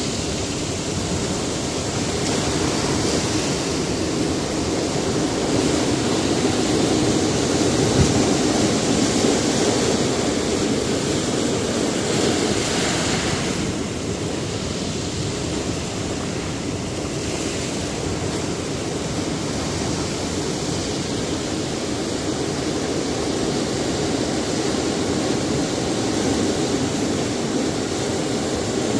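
Sea surf washing against a rocky shore: a continuous rush of water with waves swelling and receding every few seconds.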